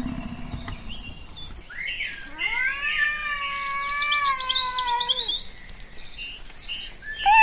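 A domestic cat giving one long meow, rising at the start, held, then falling at the end, with faint bird chirps in the background. Before it, the tail of a low roar fades out in the first second and a half.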